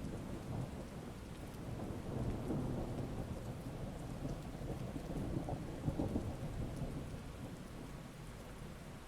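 Heavy rain falling steadily, with a long low rumble of thunder that builds about two seconds in, peaks and then dies away near the end.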